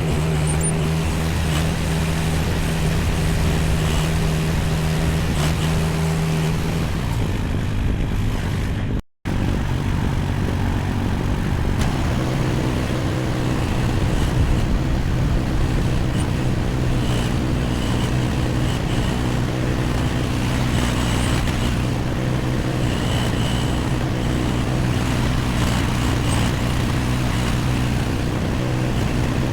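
AGT MX15R mini excavator's engine running steadily, its pitch dropping about seven seconds in and then holding lower. The sound cuts out for an instant about nine seconds in.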